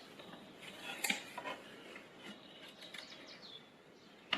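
Faint handling noises on a plastic battery case: light scrapes and small clicks, with a sharper click about a second in and another near the end.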